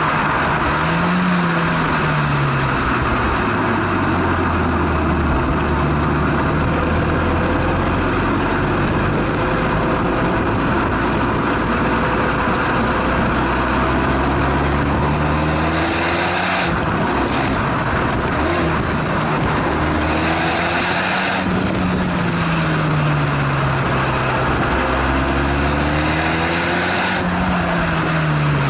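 Renault Megane Estate GT220's exhaust note on a circuit lap: the engine pitch climbs and falls away several times as the car accelerates and lifts off, holding steady for long stretches in between. A steady rush of wind and road noise runs under it.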